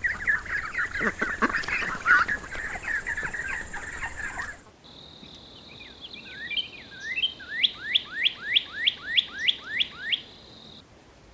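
Birds calling in two separate clips. First comes a dense chattering of several birds together. After a sudden cut, a single bird gives a series of about ten quick rising notes, roughly four a second, over a steady high tone.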